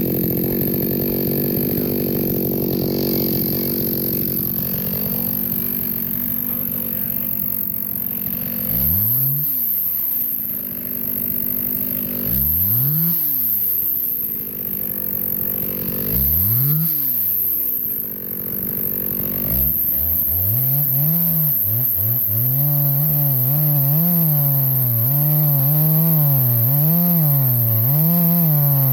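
Chainsaw engine running steadily, then revved up and let back down three times. From about two-thirds of the way in it is held at high revs, its pitch dipping and recovering again and again as the chain bites into a log.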